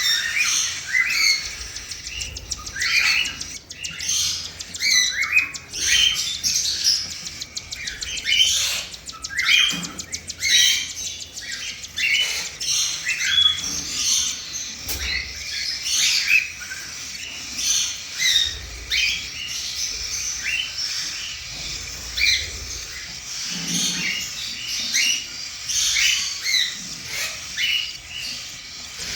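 Cockatiels chirping and squawking in a dense, continuous run of short, high calls: the begging of cockatiel chicks being fed by their mother.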